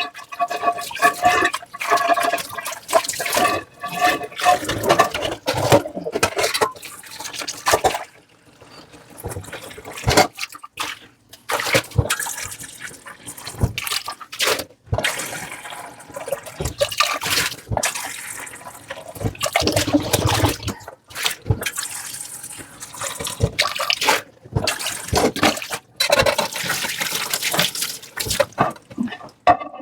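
Water from a kitchen tap running and splashing over dishes in a sink, in uneven gushes that stop and start, with small knocks of crockery. In the first few seconds a ringing tone rises out of the water, as when a dish or cup fills under the stream.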